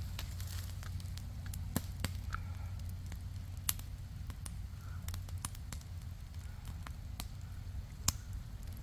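Wood fire crackling, with irregular sharp pops scattered over a low steady rumble.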